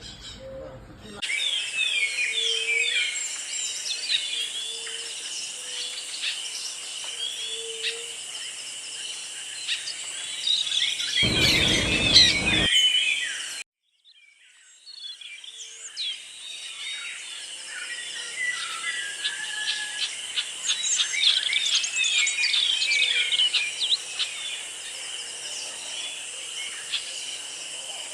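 A flock of small parrots and parakeets chirping and chattering together over a steady high hiss. About eleven seconds in, a loud low rumble lasts over a second, and shortly after the sound cuts out briefly before the chatter returns.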